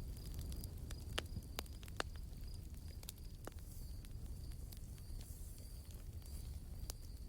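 Wood campfire crackling, with irregular sharp pops of burning branches, a few louder about a second and two seconds in, over a low steady rumble. An insect chirps faintly and evenly in the background, about three pulses a second.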